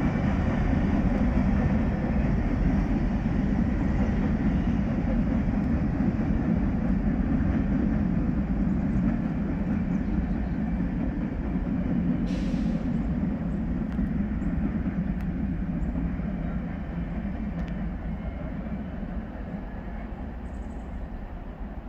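Freight cars of a manifest train rolling past on the rails, a steady rumble of wheels and cars that fades over the last few seconds as the train draws away. A brief hiss about halfway through.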